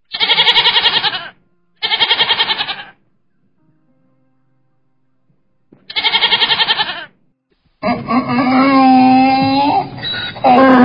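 Donkeys braying: three short, rasping, pulsed calls, then from about eight seconds in a longer, louder bray whose pitch wavers up and down.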